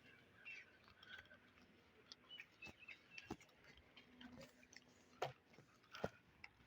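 Faint outdoor ambience of scattered sharp ticks and clicks at irregular intervals, with brief high chirps like small birds calling.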